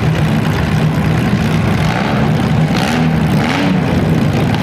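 Compact demolition derby car engines running, revving up and down a few times around the middle.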